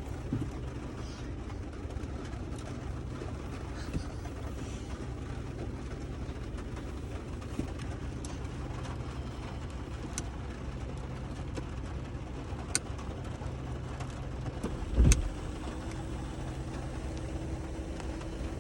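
Truck engine idling steadily, heard from inside the cab as a low hum. A few light clicks and one louder thump about fifteen seconds in.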